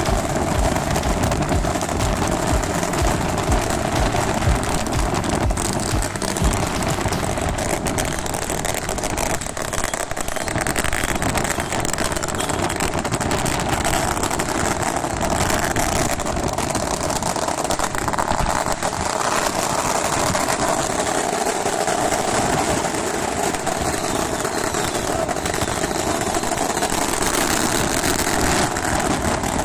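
A steady engine drone with a constant hum and rumble, and wind buffeting the microphone that eases after the first few seconds.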